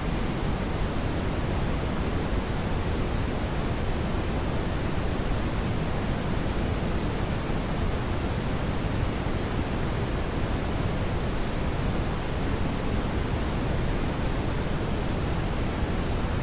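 Steady brown noise: an even, unbroken hiss weighted toward the low end, rumbling more than it hisses.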